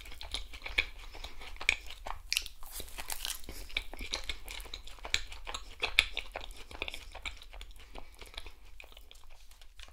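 Close-miked chewing of a glazed cream éclair: a quick run of short, wet mouth clicks and crackles, growing fainter near the end.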